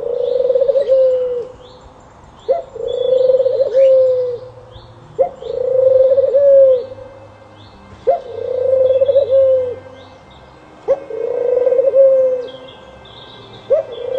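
Spotted dove cooing, its phrase repeated about five times: a short rising note, then a long purring coo that drops at the end. Faint high chirps from a smaller bird run behind it.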